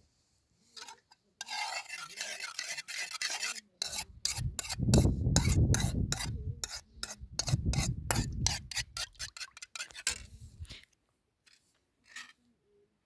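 Hissy rubbing for a couple of seconds, then a quick run of scraping strokes, about three a second, that stops about eleven seconds in.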